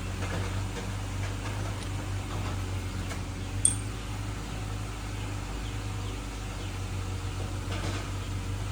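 Steady low mechanical hum, with a single sharp metallic clink a little before halfway and a few faint ticks.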